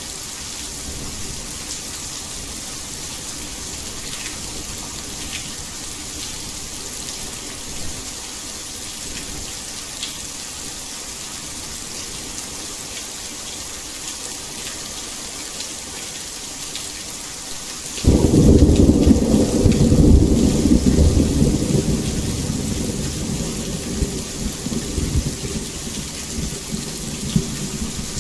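Heavy rain falling in a steady hiss, with a sudden loud thunderclap about two-thirds of the way in that rumbles low and fades out over several seconds.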